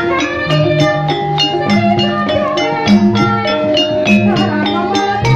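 Ebeg accompaniment music: an ensemble of tuned struck percussion and drums playing a melody over a quick, steady beat.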